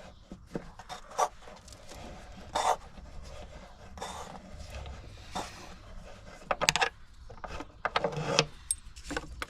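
Hand tools working on the engine's timing belt cover bolts: scattered metallic clicks and short scraping and rubbing noises, with a quick run of clicks about two-thirds of the way through.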